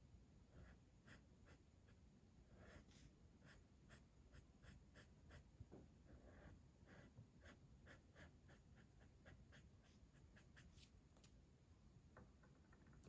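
Faint, quick strokes of a colouring tool scratching back and forth on paper.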